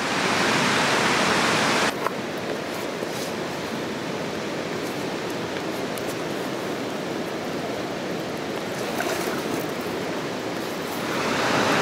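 Steady wash of surf on a stony beach. It is louder for the first two seconds, drops suddenly to a lower level, then swells again near the end.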